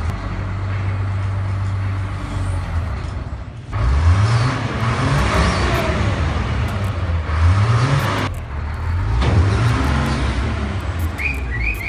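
Vehicle engines running and revving, the pitch rising a couple of times in the middle section, with the sound changing abruptly about four and eight seconds in.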